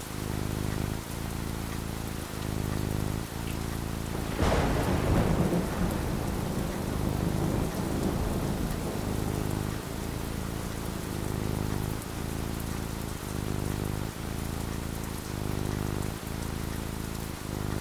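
Steady rain falling, with a thunderclap about four and a half seconds in that rumbles away over the next couple of seconds.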